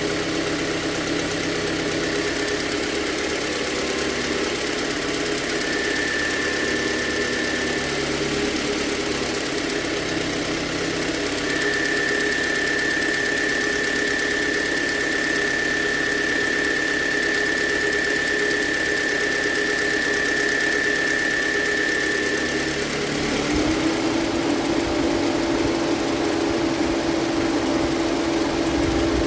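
2011 Toyota Vellfire 2.4 engine running at about 1000 rpm with a high, thin whirring whine over the engine note; the whine comes in briefly, then again for about ten seconds before fading. Near the end the engine note shifts and gets slightly louder.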